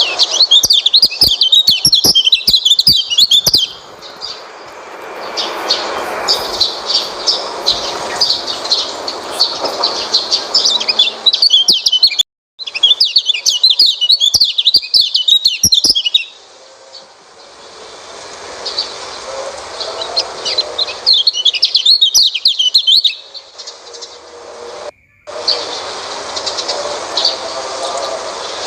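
White-eye (pleci) songbird singing in long, rapid, high twittering bursts of several seconds each, with quieter stretches between; the sound cuts out briefly twice.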